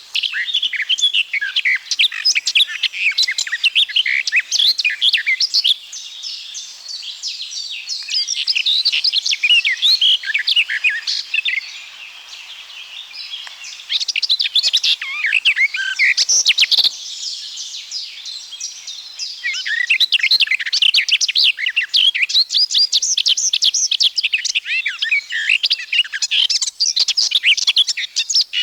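Garden warbler singing: long phrases of fast, even, continuous warbling, broken by a few short pauses.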